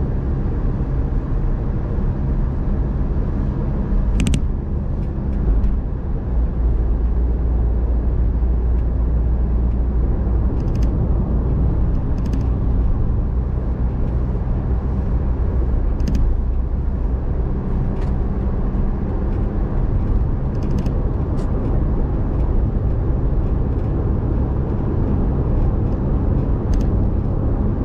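Car being driven: a steady low rumble of engine and road noise, with a few faint clicks scattered through it.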